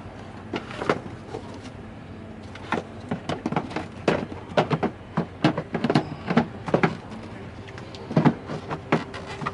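Irregular clicks and knocks of metal hand tools and parts being handled in quick succession.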